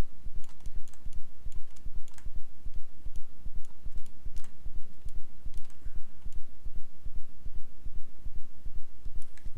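Scattered computer mouse and keyboard clicks over a low, rapidly pulsing hum, which is the loudest thing heard.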